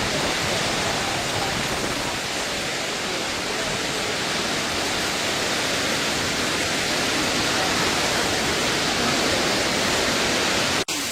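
Steady rushing water noise, even and unbroken, interrupted by a brief sharp dropout near the end.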